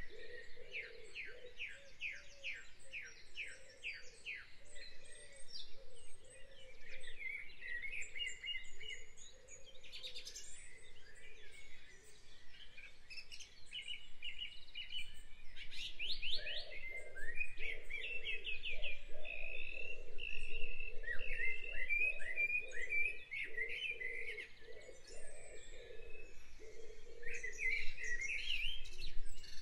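Several songbirds chirping and trilling, with a run of quick repeated notes, about three or four a second, near the start.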